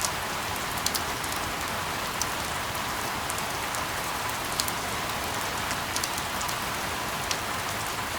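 Steady rain on a surface, an even hiss with scattered sharp drop ticks every fraction of a second, played as a sleep sound.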